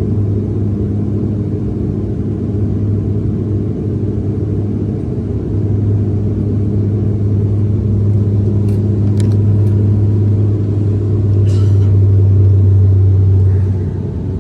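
Steady, loud airplane engine drone that swells over the middle and is loudest shortly before it eases off near the end, with a few brief clicks.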